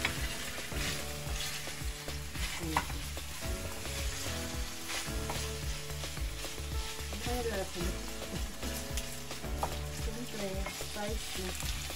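Sauce-coated chicken feet sizzling in an oiled nonstick wok while a wooden spatula stirs and turns them, with scattered scrapes and knocks of the spatula against the pan.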